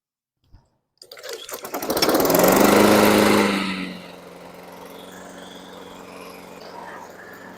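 Honda Harmony push mower's small single-cylinder four-stroke engine pull-started after a carburetor cleaning and fresh gas: it catches right away, runs loud for a couple of seconds, then settles about four seconds in to a steady, quieter run instead of dying.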